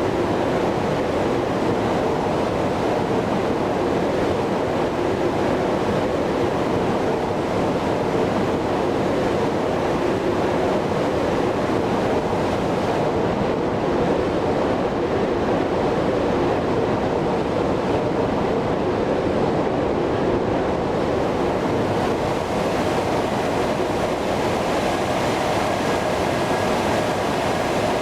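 Steady rushing noise of an Airbus A330-300 jet airliner, unchanging in level, with a faint steady high tone joining near the end.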